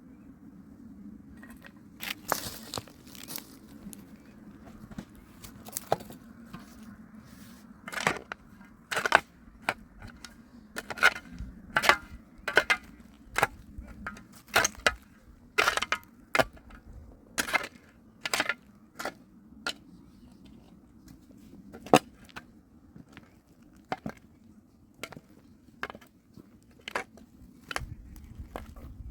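Sharp, irregular knocks and cracks, about one a second, from hand building work with concrete blocks, over a low steady hum.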